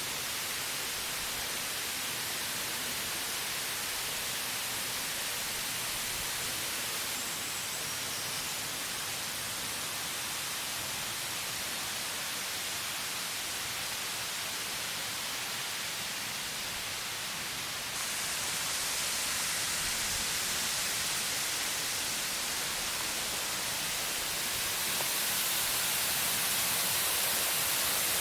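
Steady rush of a waterfall: a dense, even hiss with no distinct events. It steps up louder about 18 seconds in and again about 25 seconds in.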